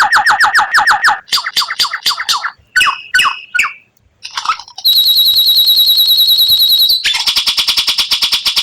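White-rumped shama (murai batu) singing in fast rapid-fire 'tembakan' phrases: a rattling run of very quick repeated notes, then a few scattered chirps and a brief pause. About halfway through comes a shrill, fast trill, which changes about 7 seconds in to another rapid rattling series.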